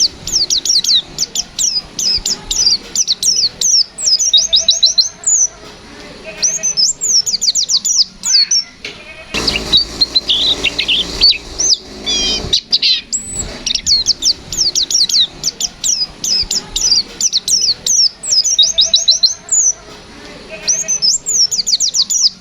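Pleci (white-eye, Zosterops) singing fast runs of sharp, high sweeping notes, the rapid 'nembak' song, in bursts of a few seconds broken by short pauses. Near the middle a few seconds of softer warbling sit under a hiss.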